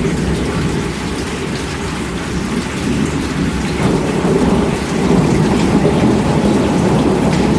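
Steady heavy rain with a low rumble of thunder beneath it, the rumble growing louder about halfway through.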